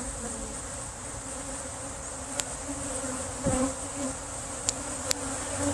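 Honeybees buzzing in a steady hum around an opened hive, with a few light clicks and a soft thump from handling the hive partway through.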